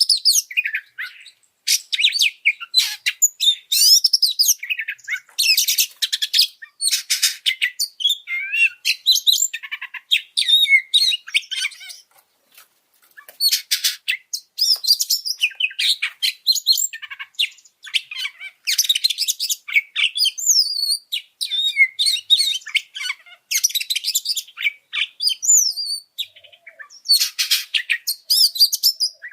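Oriental magpie-robin (kacer) singing an agitated, high-excitement song, a rapid run of varied whistled notes and harsh chattering phrases, with a short pause about twelve seconds in.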